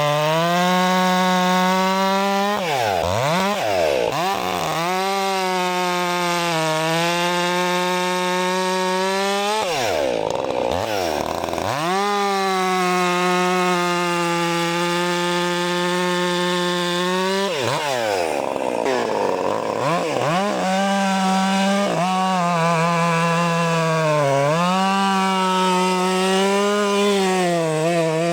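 Mastermind-built STIHL MS 400 C two-stroke chainsaw running at full throttle in the cut, holding a steady high pitch under load. Three times, at about 3, 10 and 19 seconds in, the revs drop away and climb back up between cuts.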